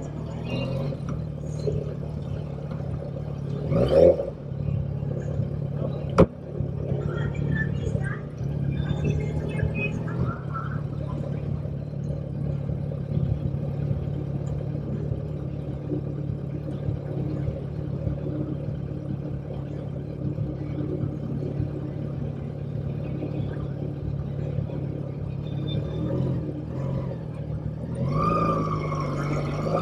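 Motorcycle engine running at a steady speed, with a brief swell about four seconds in and a sharp click a couple of seconds later; near the end the engine pitch rises and falls as the throttle changes.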